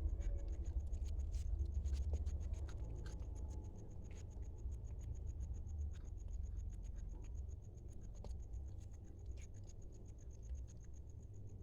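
A cat eating from its plate: scattered small clicks and scratches of food and plate over a low rumble.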